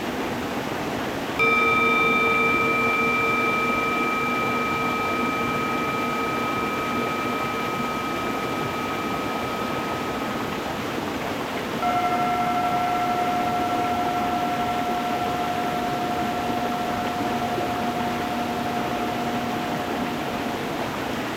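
Singing bowls struck twice, about a second in and again near the middle, each ringing on with a slowly fading tone over the steady rush of a stream.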